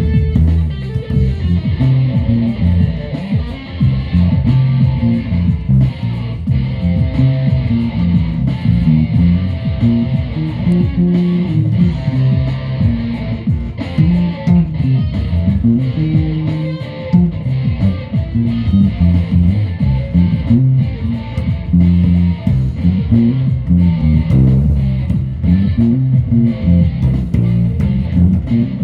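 Guitar music: plucked and strummed guitar notes over a bass line, playing without a break.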